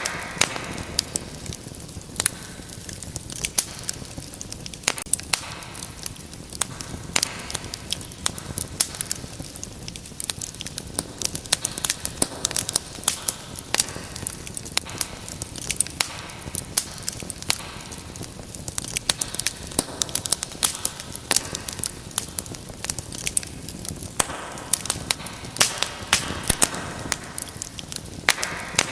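Wood fire burning in a fireplace, with frequent sharp crackles and pops over a steady low rush of flames.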